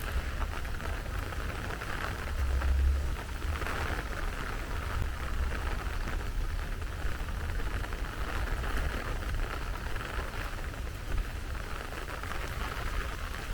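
Steady heavy rain, with a low rumble underneath that swells briefly about two and a half seconds in.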